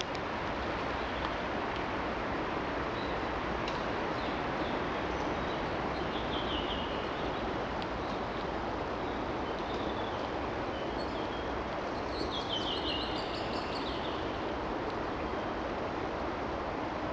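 Steady rushing outdoor noise with a songbird singing over it twice, short trilled phrases about six seconds in and again about twelve seconds in.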